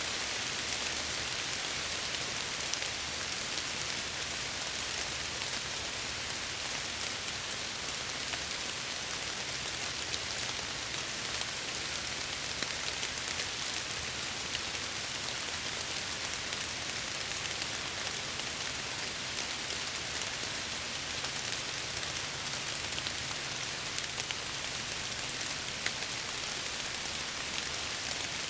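Steady rain falling against window glass: an even hiss with many small, sharp drop ticks scattered through it.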